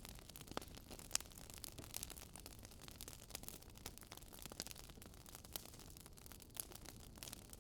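Faint crackling of a wood fire: irregular sharp pops and snaps over a low steady hiss.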